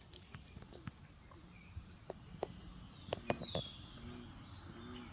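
A bird gives a single down-slurred whistled call about three seconds in, over a quiet outdoor background with a few faint scattered clicks.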